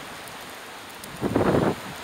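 Snowstorm wind blowing steadily, with a stronger gust buffeting the microphone for about half a second just past the middle.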